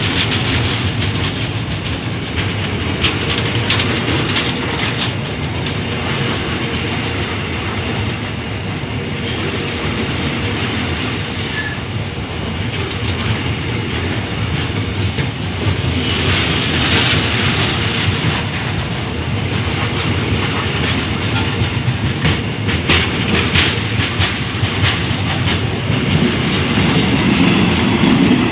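Ballast hopper wagons of a stone train rolling past close by: a steady rumble of steel wheels on rail, with clicks as the wheels cross the rail joints, thickest in the last third.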